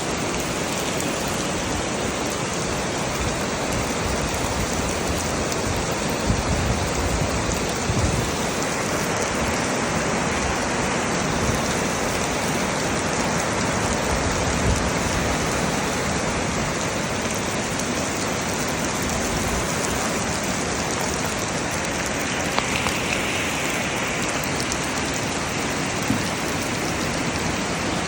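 Heavy rain falling steadily in a forest, with a few brief louder knocks of larger drops now and then.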